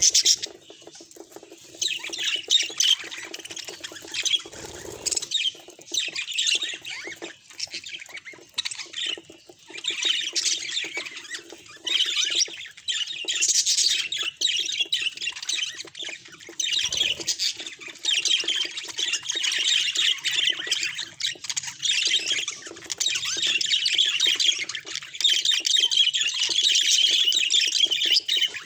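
Budgerigars chattering and squawking: a dense run of rapid, high chirps and warbles that comes in spells, fuller and more continuous from about ten seconds in.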